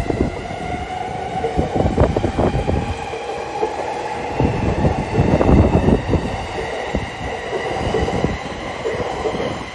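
Electric train running along the tracks: a constant clatter of wheels over the rails with a steady whine over it.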